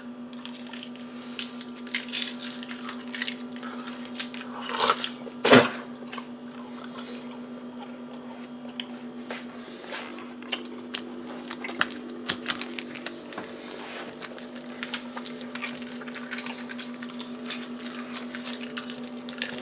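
Close-up chewing and biting: a run of wet, crunchy mouth clicks and smacks, with a louder pair about five seconds in, over a steady low hum.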